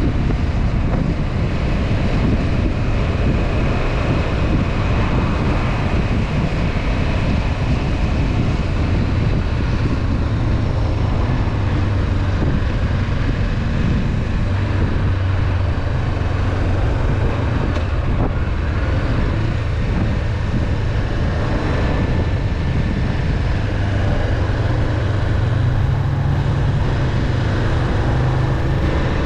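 Honda CB500F parallel-twin engine running under way, a steady rumble with wind noise on the microphone. The engine note dips and then rises again near the end as the rider accelerates.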